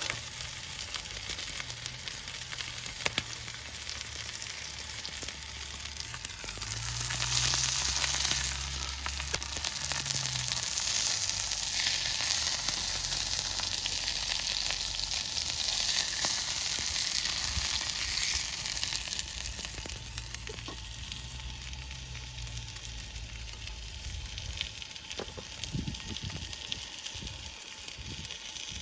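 Food sizzling and frying in a pan, a steady hiss with small pops that swells louder for about ten seconds in the middle.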